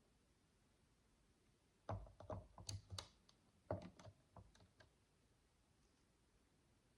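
Tiny plastic micro building bricks clicking and tapping as they are handled. There are two quick runs of clicks, one about two seconds in and another a second or so later.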